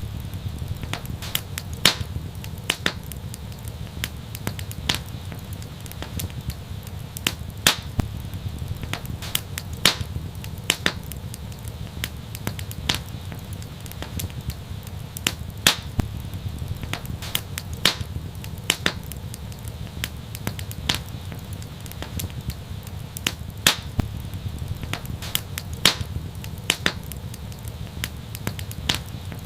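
Wood fire in an outdoor fireplace crackling, with irregular sharp pops and snaps, several a second, over a steady low rumble.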